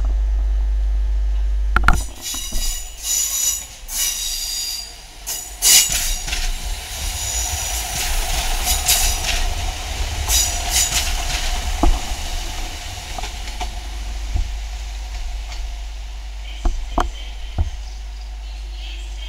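Class 150 Sprinter diesel multiple unit running slowly past along the platform, its wheels squealing on the curved track in repeated high-pitched bursts over the first half, with a steady drone from the train under the squeal. Near the end the wheels click over rail joints a few times.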